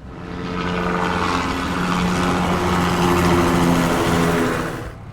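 Loud motor engine running with a steady drone and a wide noisy hiss over it, swelling in at the start and cutting off abruptly near the end.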